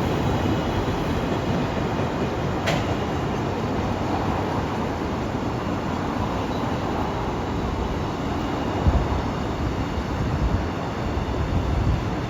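Freight train hauled by an EF510 electric locomotive rolling into the station: a steady rumble of wagon wheels on the rails, with one sharp click about two and a half seconds in.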